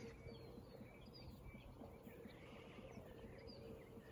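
Faint birds chirping, with many short, scattered calls over a quiet outdoor background.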